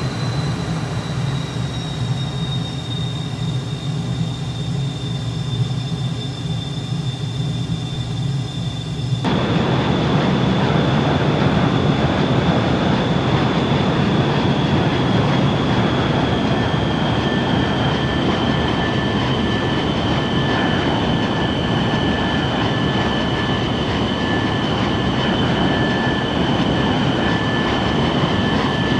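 Aircraft turbine engines running with a steady high whine that slowly falls in pitch, over a loud rushing noise. About nine seconds in, the sound changes abruptly to a louder, fuller rush.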